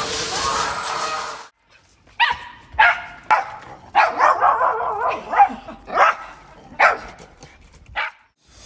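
A dog barking and yipping in a run of short, sharp barks, with a denser stretch of drawn-out yelps in the middle. It comes after a steady hiss that cuts off about a second and a half in.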